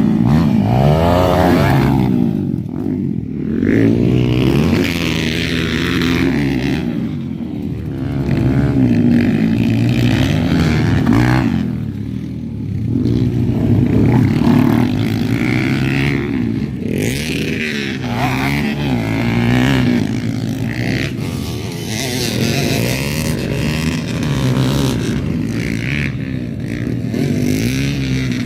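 Motocross dirt bike engines revving hard and easing off over and over, their pitch rising and falling, as the bikes ride the track, getting louder and fading every few seconds as they pass.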